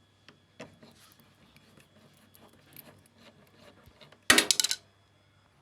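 Handling noise from work on a washing machine's casing: a few faint knocks, then a loud rattling clatter of clicks lasting about half a second, a little past four seconds in. A faint steady hum runs underneath.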